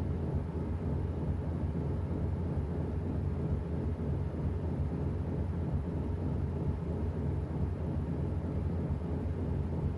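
Washing machine running with a steady low rumble and no breaks.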